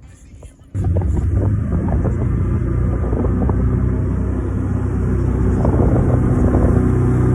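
Boat engine running steadily under way, cutting in abruptly about a second in, with wind rushing on the microphone.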